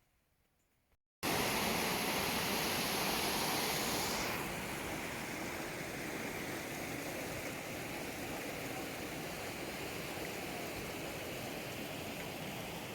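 Loud, steady rush of water that starts abruptly about a second in after near silence and eases a little a few seconds later.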